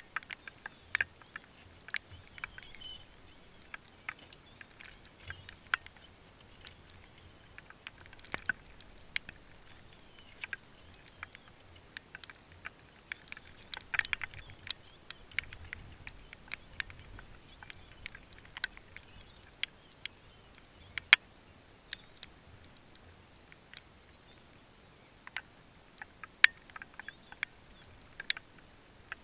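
Raindrops striking close to the microphone in irregular sharp ticks, some much louder than others, over a soft steady hiss.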